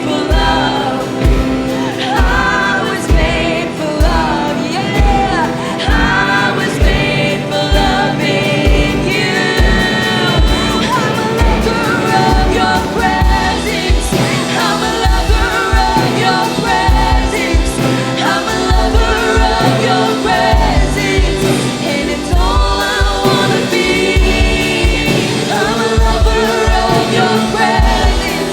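Worship band music with voices singing over sustained chords and a steady low drum beat.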